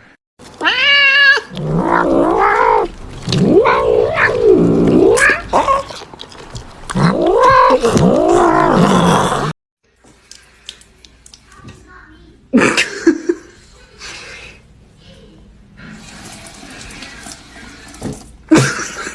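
Cat yowling, a caterwaul of several long drawn-out calls that rise and fall in pitch, stopping abruptly about halfway through. A quieter stretch follows, with two sharp knocks.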